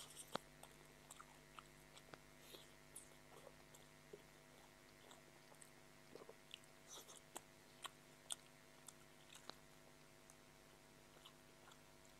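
A person chewing french fries and chow mein close to a lapel microphone: faint, irregular wet mouth clicks and smacks, with a few sharper ones.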